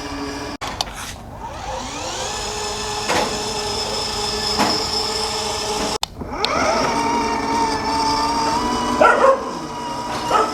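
Electric motors of a children's ride-on car whining. The pitch rises as they spin up after each of two breaks, then holds steady, with a few light knocks near the end.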